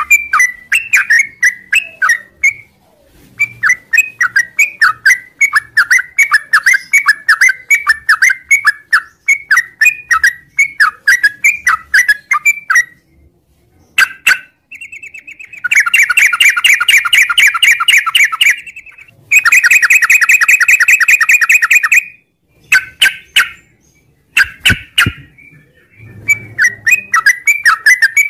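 Yellow-vented bulbul (trucuk) singing: quick runs of short chirping notes, then about halfway through two long, very rapid rattling trills of about three seconds each, then more short phrases near the end.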